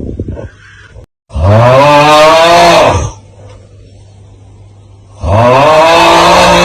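The looped "Aauuggh" meme sound: a man's loud, strained yell of "aauuggh", heard twice, about a second and a half in and again about five seconds in, each lasting about a second and a half, with a short rattling snort-like sound at the very start.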